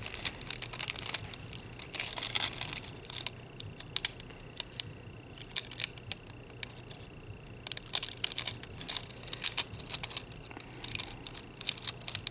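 Small sharp clicks, taps and light crinkles in irregular clusters as nail art tools and supplies are handled close to the microphone. A faint steady high tone runs underneath.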